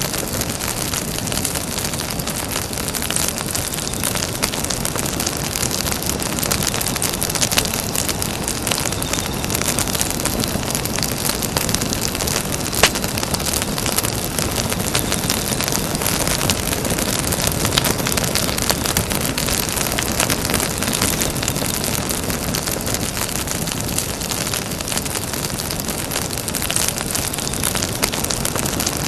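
Campfire burning: a steady rush with dense, fine crackling throughout and one sharper pop a little before halfway.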